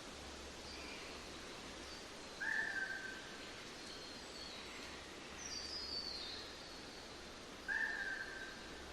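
Birds calling over a steady outdoor background hiss: a short, level whistled note twice, about five seconds apart, and a quick descending run of high notes between them.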